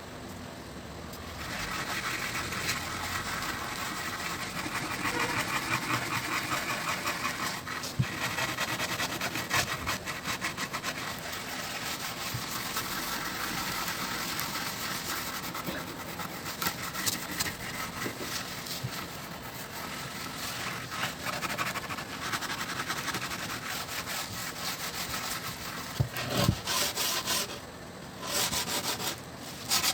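Sandpaper rubbing over a wooden longboard deck in rapid back-and-forth strokes. The rubbing starts about a second in and breaks off briefly near the end.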